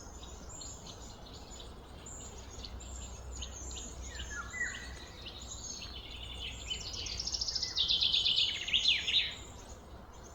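Birds chirping and calling, with a few short falling notes and a fast run of loud, rapidly repeated chirps about seven seconds in.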